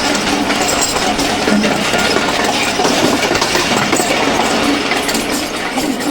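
Rehman Baba Express passenger train running at speed: a loud, steady rush of wheels on rails with rapid clattering throughout.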